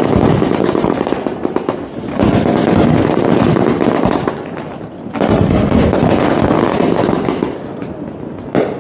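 Fireworks display: dense, rapid volleys of bangs and crackling in three waves, each two to three seconds long, with short lulls between them.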